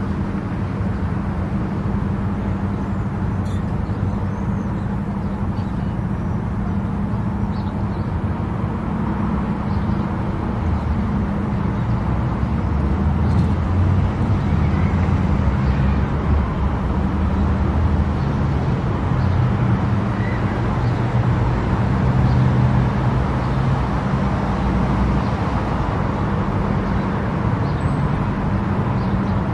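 Car driving at highway speed: a steady drone of tyres on the road and engine, with a strong low hum.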